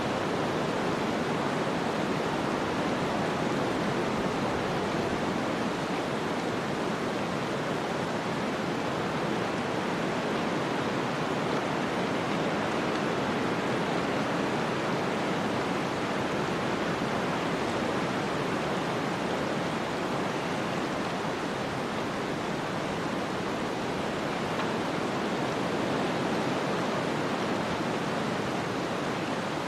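Snowstorm ambience: a steady, even rushing of wind-driven noise with no separate sounds standing out.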